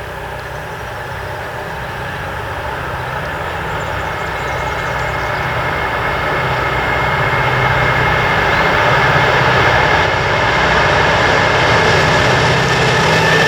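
Diesel freight locomotive approaching, its engine running steadily and growing louder throughout, with a thin steady whine rising above it in the second half.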